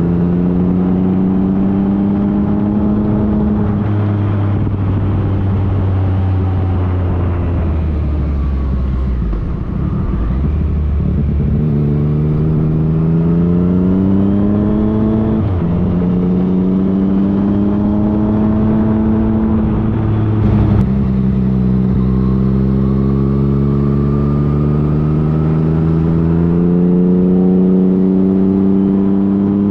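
Yamaha FJ-09's 847 cc inline-three engine pulling under load, its note climbing steadily in pitch and dropping back at gear changes, about four seconds in, near the middle and about two-thirds of the way through, over a steady rush of wind.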